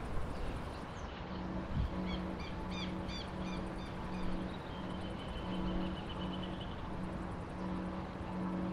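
Open-country ambience: a bird gives a quick series of short chirps about two seconds in, then a steady high trill, over a low hum that pulses regularly.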